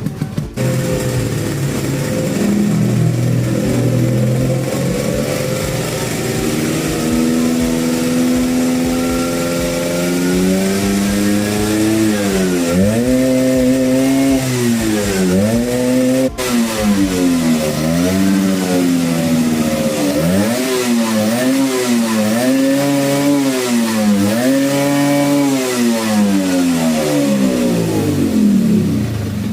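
Vespa scooter engine breathing through a locally made big-box aftermarket muffler, being revved on the stand: the pitch climbs slowly from idle, then about a dozen seconds in it is blipped up and down repeatedly, roughly every two seconds, before settling back down near the end.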